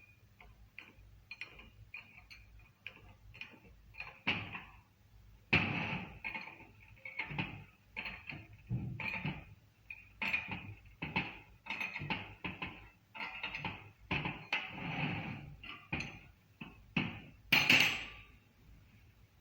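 Hand tools knocking and clinking against metal parts in an irregular string of short knocks, the loudest near the end.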